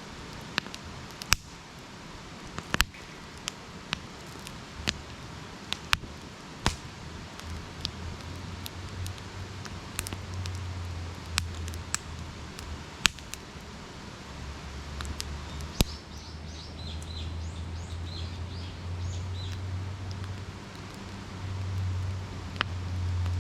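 Wood campfire crackling, with sharp pops scattered throughout over a soft hiss. A low hum comes in about five seconds in and grows louder, and a bird chirps briefly past the middle.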